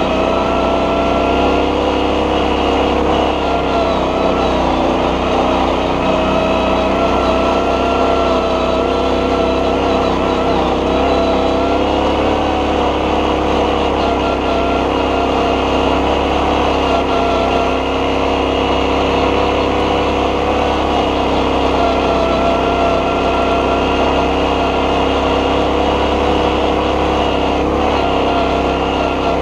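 Rokon two-wheel-drive motorcycle's engine running steadily under way, its note holding nearly level and wavering slightly in pitch.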